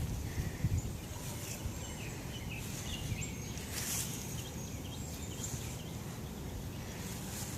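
Outdoor ambience: a steady low rumble of wind on the microphone, with faint, scattered bird chirps and a few brief rustles.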